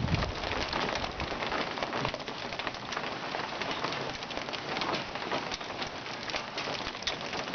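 Heavy rain falling on surfaces: a dense, steady hiss filled with many small sharp drop hits.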